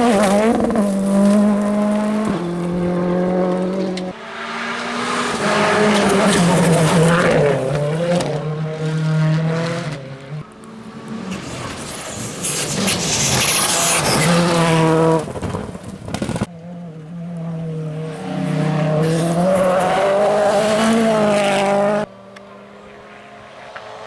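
WRC 2 rally cars driven hard on a test stage, their turbocharged four-cylinder engines revving up and down through the gears. Several short passes follow one another with abrupt cuts, and near the end a single engine runs more quietly at a steady note.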